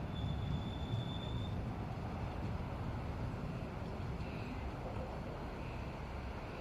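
Desiro diesel multiple unit rumbling low and steady at the station, with a thin high whine lasting about a second and a half near the start.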